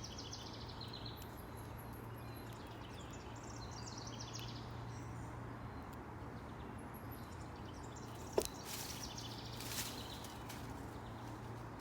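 Songbirds singing in short chirping phrases, over a faint steady low hum. About eight seconds in comes a sharp knock, the loudest sound, followed by a second or so of scratchy rustling.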